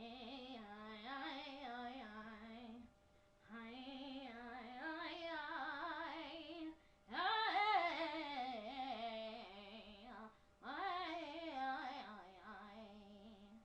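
A woman singing wordless vowel sounds in four long, drawn-out phrases with a wavering vibrato, unaccompanied.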